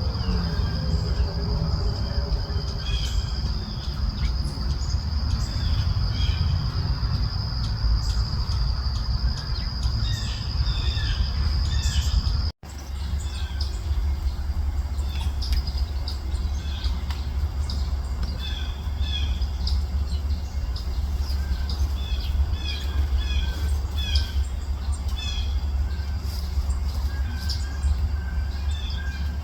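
Small birds chirping and calling in short notes over a steady low rumble, with a thin steady high tone that stops at an abrupt cut about twelve seconds in.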